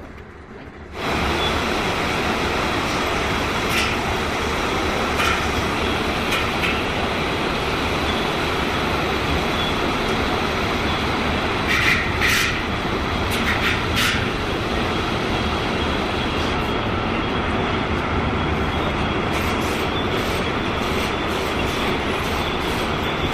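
Steady, loud din of machinery on an engine-factory floor, starting abruptly about a second in, with a few sharp metallic clanks in the middle.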